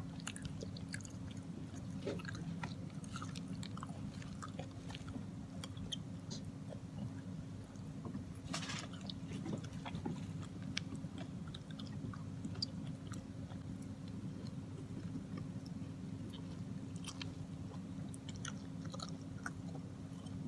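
Close-up chewing of spicy mixed rice paper, with scattered small clicks and crunches, over a steady low hum.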